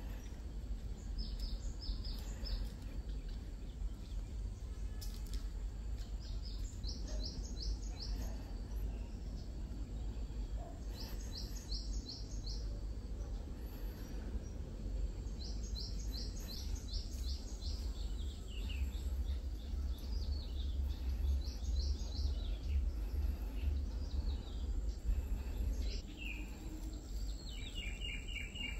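A songbird calling again and again: quick runs of four to six short high notes every few seconds, with a different, lower call near the end. A steady low rumble lies underneath, heavier in the second half.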